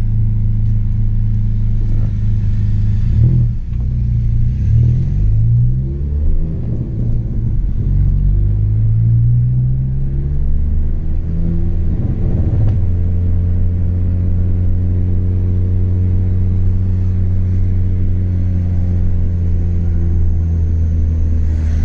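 Chevrolet Astra 2.0 four-cylinder engine through a straight-through exhaust, heard while driving. It rises in pitch in several pulls, dropping back between them as it accelerates through the gears, then settles to a steady cruising note about halfway through.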